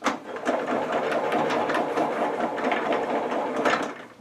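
Table saw running with its thin-kerf plastic-cutting blade mounted backwards, a steady rattling drone; the reversed teeth rub at the HDPE rather than cutting it. It starts suddenly and stops shortly before the end.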